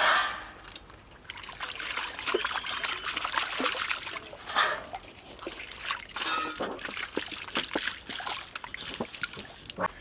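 Water sloshing, trickling and splashing in short irregular bursts, with scattered sharp clicks and knocks and a louder knock at the very start.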